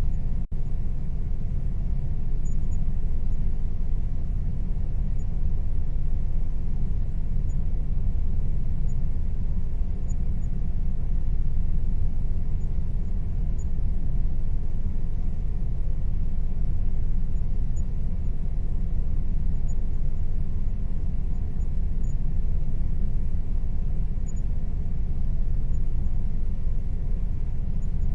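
Air conditioner running with a steady low rumble of air and motor noise and a faint steady tone above it; the sound drops out for a split second about half a second in.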